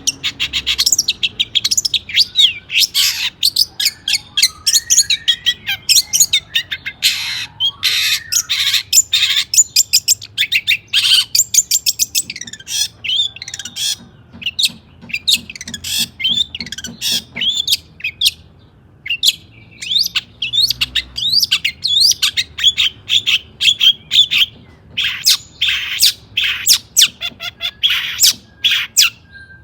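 Long-tailed shrike (cendet) singing a fast, near-continuous run of short chirps and harsh squawks, broken by a few short pauses.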